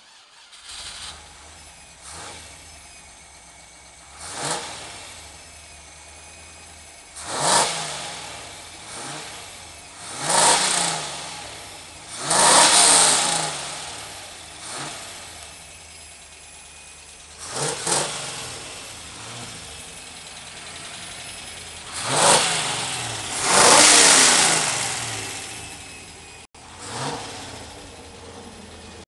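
Range Rover's 4.0-litre V8 idling through its exhaust and revved in repeated quick throttle blips, about a dozen in all. Each blip rises and falls back to idle, and two of them are held longer.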